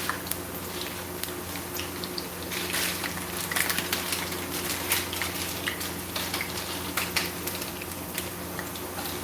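Hash browns frying in hot oil: a steady sizzle with irregular sharp crackles and pops, over a steady low hum.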